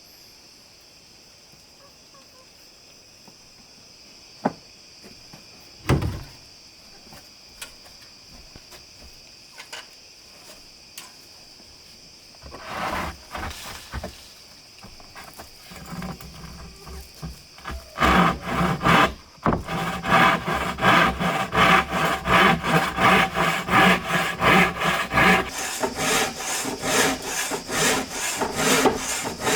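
Hand saw cutting through wood in steady back-and-forth strokes, about two a second, building up from a few tentative strokes to a regular rhythm partway through. Before the sawing there are a couple of knocks and a steady high insect buzz.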